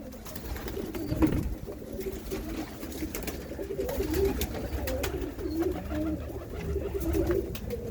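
Domestic pigeons cooing: a run of low, wavering coos from several birds, overlapping one another.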